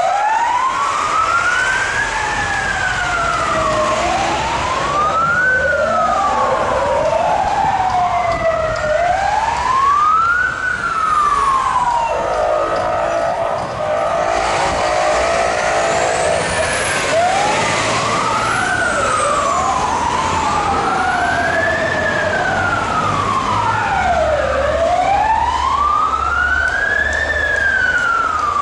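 Several fire engine sirens wailing together, slow rising-and-falling sweeps overlapping out of step, over the rumble of the trucks' engines. A steady horn sounds for about two seconds near the middle.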